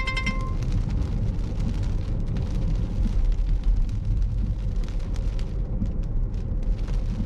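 Inside a moving car in heavy rain: steady road and engine rumble, with rain hitting the windshield and roof in many irregular sharp ticks. A two-tone electronic beep ends just after the start.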